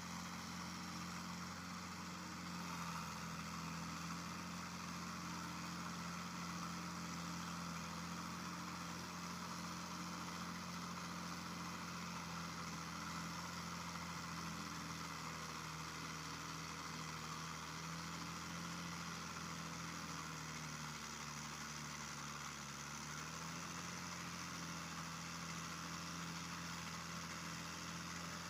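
Mahindra tractor's diesel engine running steadily while pulling a plough. Its pitch sags for a few seconds about twenty seconds in, then comes back up.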